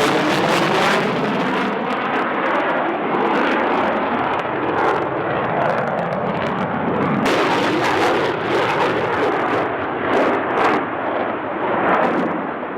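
Jet fighter engine noise, a loud steady rushing sound, with a few sharp bangs in the second half.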